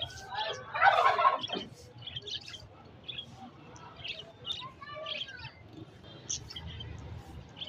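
Budgerigars chirping and chattering in short, high calls, with one louder burst about a second in.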